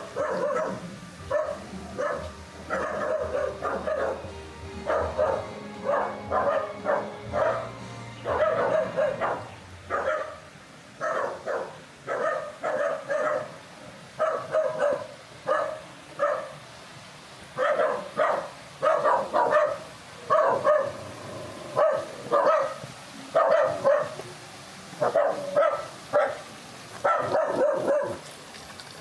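A dog barking over and over in quick runs of barks, with short pauses between the runs.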